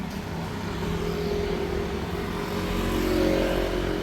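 Street traffic: a vehicle engine running close by, growing louder to a peak about three seconds in over a steady low rumble.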